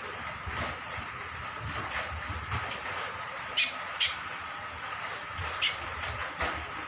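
Rain falling steadily, with three short, sharp, high ticks: two close together around the middle and one near the end.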